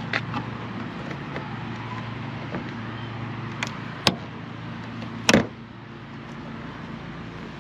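Two sharp knocks, about four and five seconds in, the second the louder, over a steady low hum.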